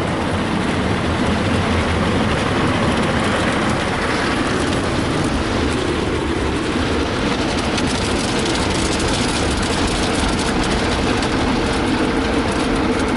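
Ryko Softgloss Maxx automatic car wash rinsing: water spraying steadily against the car, heard from inside the cabin over the wash machinery. A steady hum joins in about halfway through.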